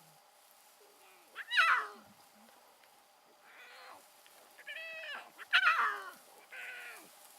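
A very young lion cub mewing: about five high, cat-like calls, each falling in pitch, the loudest about a second and a half in and again near the end.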